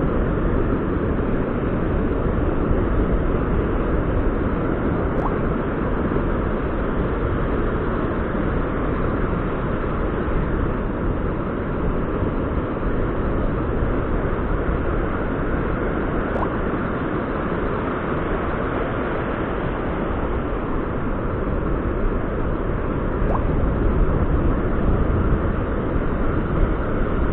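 Heavy surf on a rough sea after a typhoon: a steady, dense rushing noise that swells slightly near the end.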